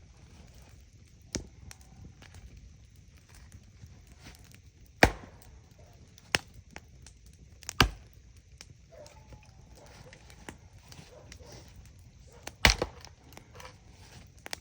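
Wood being chopped: about five sharp, single strikes at irregular intervals, the loudest about 5, 8 and 13 seconds in, over the faint crackle of a campfire.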